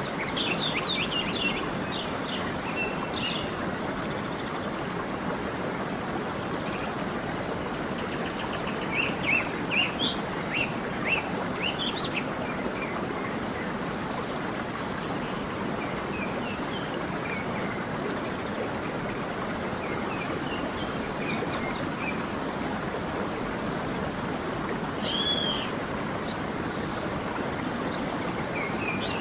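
Stream running with a steady rush of water while small birds chirp and trill above it in short bursts, busiest about nine to twelve seconds in, with a single clear call near the end.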